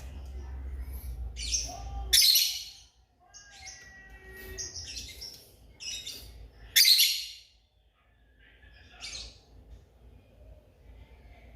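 Lovebirds calling: a series of short, shrill chirps, the loudest about two seconds in and again near seven seconds.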